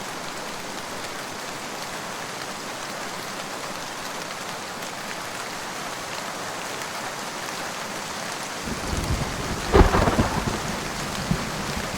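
Steady rain falling, with thunder breaking in near the end: a low rumble begins about nine seconds in, a sharp loud crack follows a second later, and the rumbling carries on.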